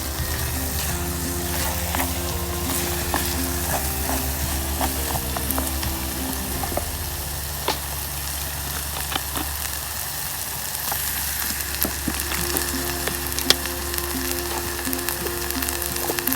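A steady sizzling crackle dotted with scattered sharp pops, over soft background music with low sustained notes.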